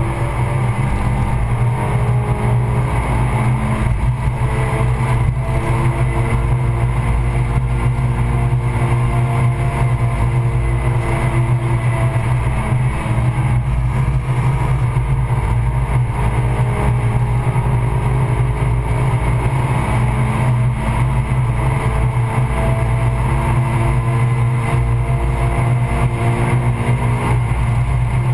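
Stage 2-tuned Suzuki Swift Sport's four-cylinder engine driven hard, heard from inside the cabin, its pitch climbing and dropping again and again over a steady low drone.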